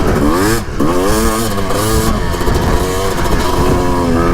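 Suzuki RM250 two-stroke dirt bike engine revving hard under riding, its pitch rising, dropping off briefly just under a second in, then climbing again and holding high.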